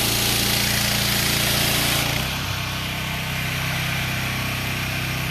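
Pressure washer engine running steadily, with the high-pressure water spray hissing until it cuts off about two seconds in while the engine keeps running.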